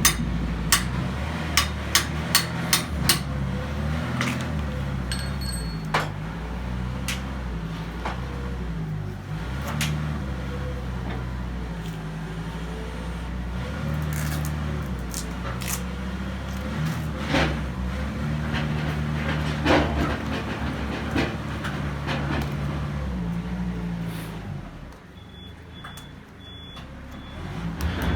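Machinery running with a low drone, and a quick run of about six sharp knocks in the first three seconds, with single knocks here and there later. The drone drops away briefly near the end.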